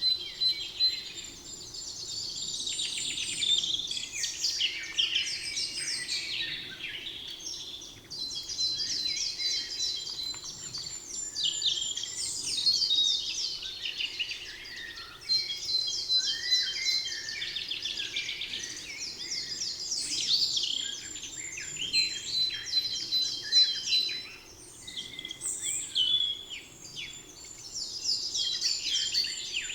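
Chorus of several songbirds singing in a forest, overlapping chirps and songs, with a fast trilling phrase that comes back every few seconds.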